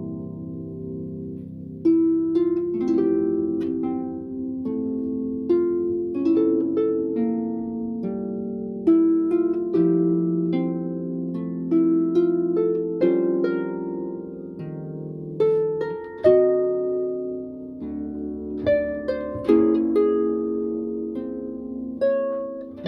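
Instrumental music on a plucked string instrument: an unhurried melody of single plucked notes, each ringing on and overlapping the next.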